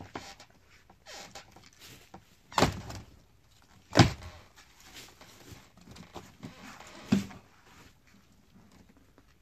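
Axe chopping into the trunk of a thick dead tree: three blows a second or more apart, the second the loudest, with small knocks between them.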